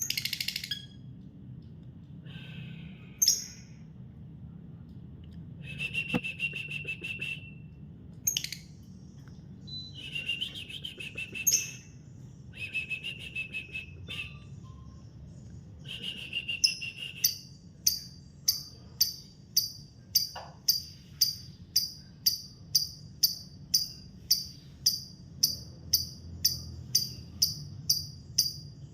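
Lovebird singing: a few short buzzy chattering phrases, then from about halfway a long unbroken run of sharp high chirps repeated about twice a second, the sustained 'ngekek' song prized in lovebirds.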